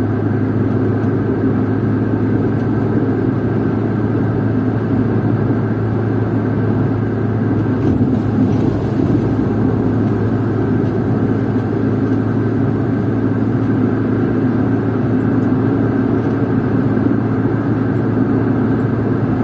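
Steady drone of a moving car heard from inside the cabin: engine and road noise with a strong low hum, unchanging throughout.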